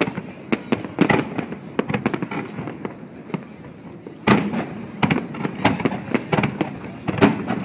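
Large fireworks display: aerial shells bursting in rapid, irregular, overlapping bangs and crackles, with the heaviest burst about four seconds in.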